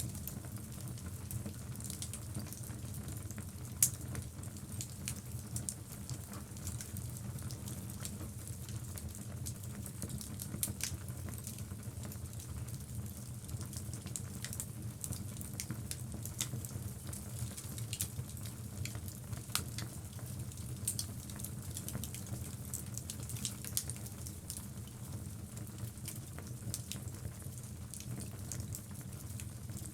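Wood logs burning in a fireplace: a steady low rumble of flame with frequent small crackles and pops, and one louder pop about four seconds in.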